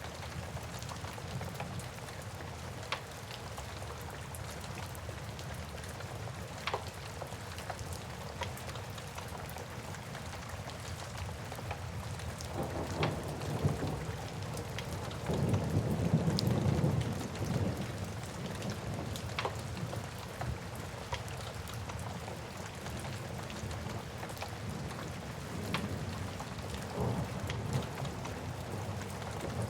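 Steady rain with scattered sharp pops and crackles of a wood fire. A low rumble swells up twice around the middle and again faintly near the end.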